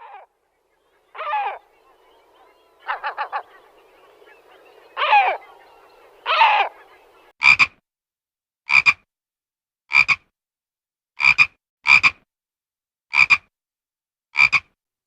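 A series of animal calls: four short calls that waver in pitch over a faint background hiss, then seven short, clipped calls evenly spaced about a second and a quarter apart.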